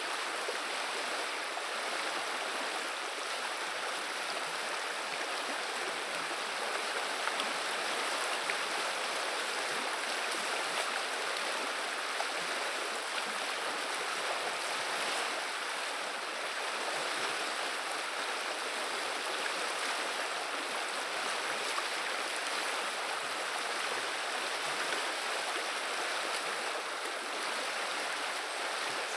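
River water running and babbling steadily, an even rushing that doesn't change.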